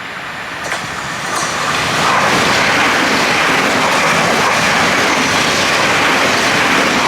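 A train running close by, its noise building over the first two seconds, with a couple of faint clicks as it nears, then holding steady and loud.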